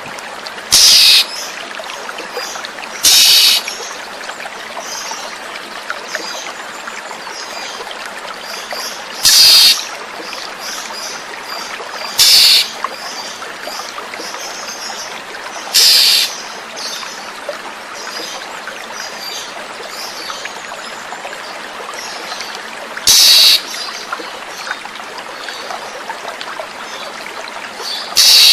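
Steady flowing-water sound with oriental magpie-robin (kacer) lure calls over it: faint chirps throughout and seven loud, short, high-pitched calls spaced a few seconds apart.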